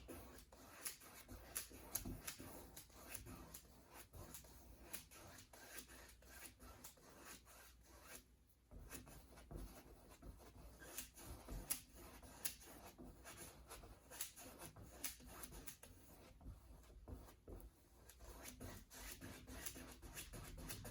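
Faint, repeated short scratching strokes of a paintbrush on canvas, laying on a base coat of acrylic paint.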